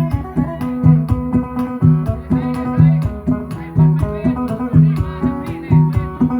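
Isan phin (plucked lute) playing a fast, repetitive melody over a deep note that recurs about once a second, giving a steady driving beat.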